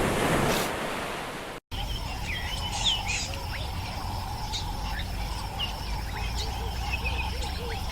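Small birds chirping on and off over a steady outdoor background hum. A brief rough noise before them cuts off abruptly about one and a half seconds in.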